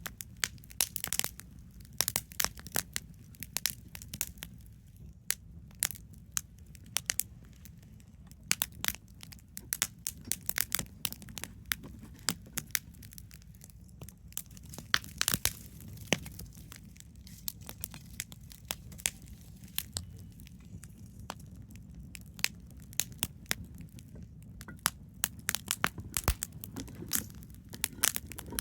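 Wood campfire crackling and popping: irregular sharp snaps, several a second, over a low steady rumble from the burning fire.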